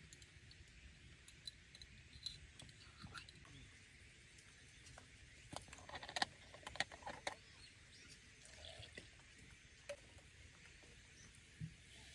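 Near silence with scattered faint clicks and light knocks, a cluster of them a little past the middle.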